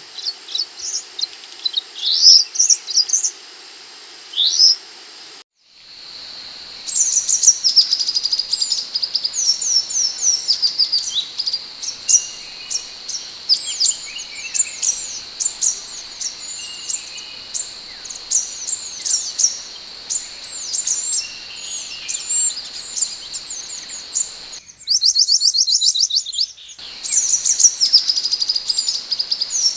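Scarlet minivet (sepah hutan) calling: fast, repeated high chirps and short sliding whistles over a steady high hum. The track cuts abruptly about five seconds in and again near twenty-five seconds, where a quick run of ticks briefly takes over.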